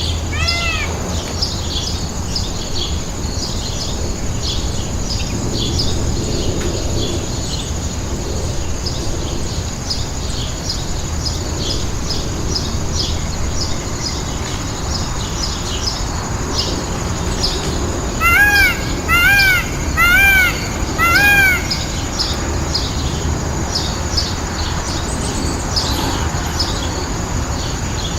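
Many small birds chirping with short, high notes over a steady background hiss. About two-thirds of the way through, a bird gives four loud, harsh calls about a second apart.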